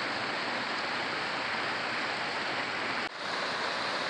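Steady rush of flowing water from the river and the hot-spring streams running into it. The sound drops out briefly about three seconds in, then resumes.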